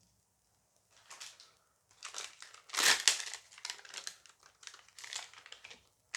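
Foil booster-pack wrapper crinkling as it is handled and torn open, in a run of rustles with the loudest tear about three seconds in.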